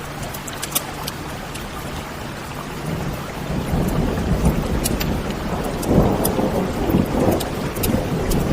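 Wood fire crackling with sharp scattered pops over steady rain, and a low rumble of thunder that swells about three seconds in and peaks near six seconds.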